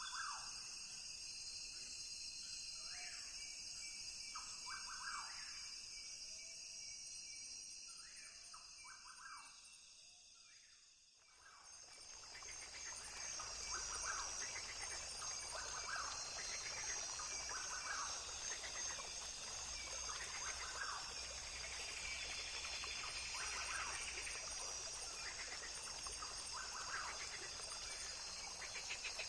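Rainforest ambience: a steady high-pitched insect chorus with repeated short bird calls over it. The whole sound fades down about eleven seconds in, then swells back fuller and louder.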